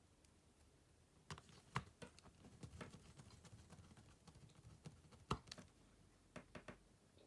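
Faint, scattered clicks and taps of small tools and phone parts being handled during a smartphone repair. The two sharpest clicks come about two seconds in and just past five seconds.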